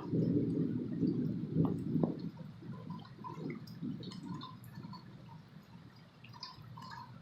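Rain dripping: scattered drops tapping, over a low rushing noise that fades away in the first two or three seconds.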